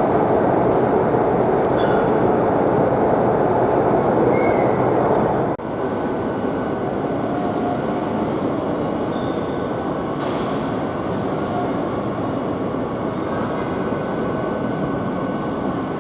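A Madrid Metro series 8000 train running at speed, its steady rolling and running rumble heard from on board, with a few faint short high squeals from the wheels. The noise dips sharply about five and a half seconds in and then goes on a little quieter.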